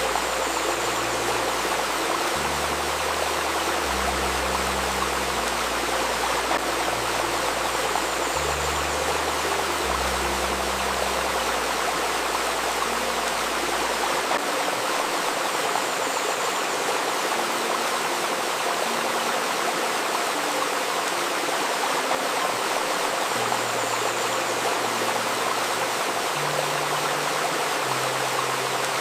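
A river babbling steadily over stones, with soft, low sustained tones of a healing drone layered beneath it that shift pitch every second or two.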